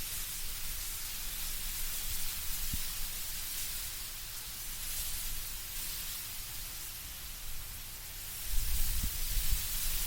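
Wind blowing through trees with leaves rustling, a steady soft hiss; a low rumble of a stronger gust swells near the end.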